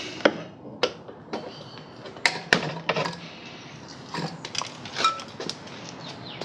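Irregular clinks and knocks of metal parts and tools being handled during motorcycle work, about a dozen sharp strikes spread unevenly, with one brief ring about five seconds in.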